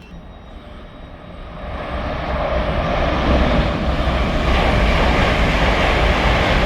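A train running into the station: a rumble and rush that builds over about two seconds, then stays loud and steady.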